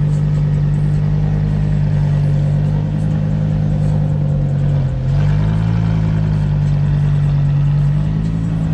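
A car engine idling steadily with a deep, even drone. Its pitch dips briefly about five seconds in, then sits a little higher for a few seconds before settling back.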